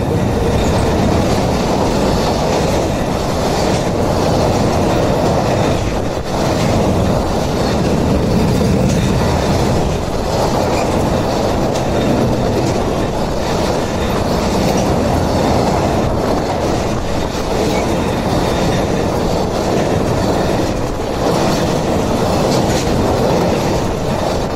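Container freight train hauled by a JR Freight EF210 electric locomotive passing at close range over a steel truss railway bridge: a loud, steady rumble of wagon wheels with clickety-clack over the rail joints.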